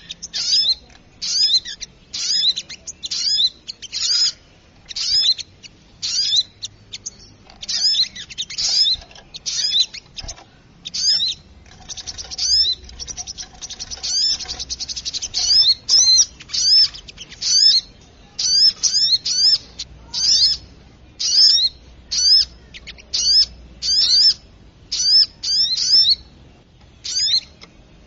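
Little spiderhunter calling noisily: a run of sharp, high chirps repeated one to three times a second, breaking into a fast rattling trill about twelve to fifteen seconds in.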